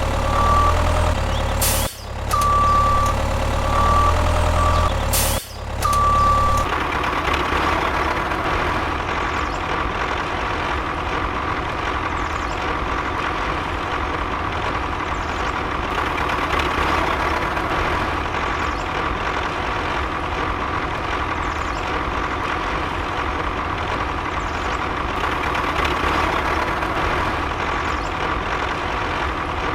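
Electronic beeping, a repeated single tone cut into short pieces, over a low hum for the first six seconds or so. Then a steady whirring, typical of a small electric motor running a DIY model tractor.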